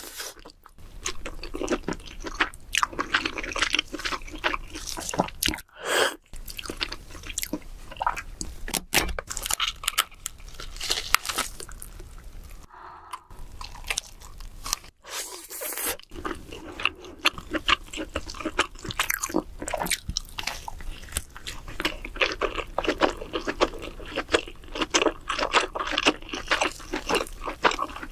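Close-up eating sounds of king crab: steady chewing and crunching, a dense run of small crisp clicks broken by a few short pauses.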